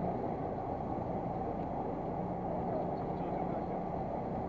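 Fishing boat's engine running steadily: a low, even hum with a faint steady tone.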